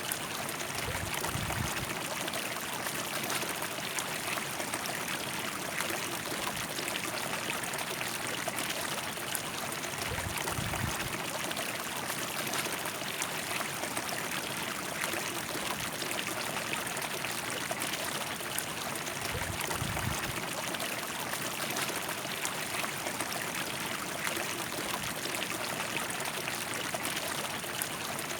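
River water flowing and babbling steadily, with a few brief low rumbles about a second in, around ten seconds and around twenty seconds.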